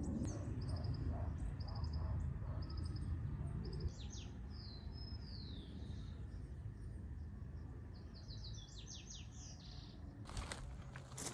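Countryside birds singing. One repeats a short high note at an even pace, then come falling slurred notes and a quick run of notes, over a steady low rumble of background noise. Near the end there are a few sharp knocks.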